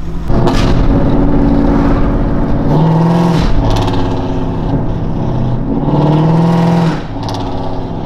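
Car engine accelerating hard under load, its pitch climbing steadily and then dropping sharply at an upshift, twice.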